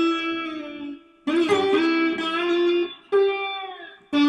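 Slide guitar playing a short phrase of sustained notes that glide between pitches, with a note sliding down in pitch about three seconds in.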